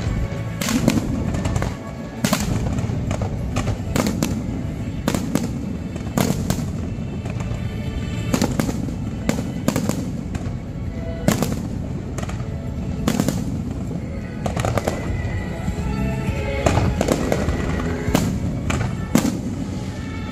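Aerial fireworks shells bursting in many sharp bangs at irregular intervals, over loud music playing.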